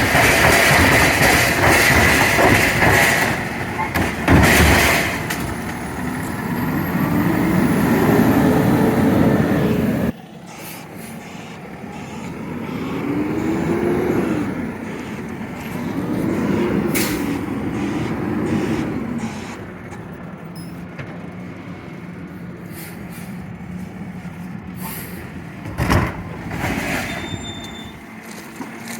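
Garbage truck running, its engine pitch rising and falling in several slow swells as it revs. Level drops abruptly about ten seconds in, and a few sharp clanks or air hisses cut through.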